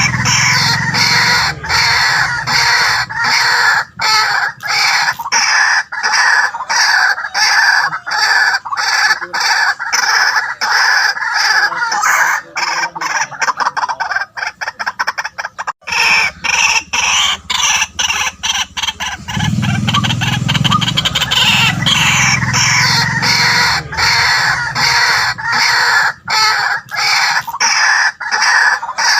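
White-breasted waterhen calling loudly and without pause: a dense run of harsh, rapidly repeated notes that grows quicker and choppier around the middle.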